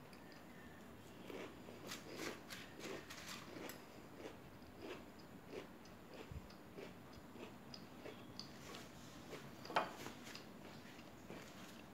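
A person chewing a mouthful of crisp puffed rice (murmura), a run of small, dry crunches a few times a second. Just before the end comes one sharper click, as a china teacup is lifted off its saucer.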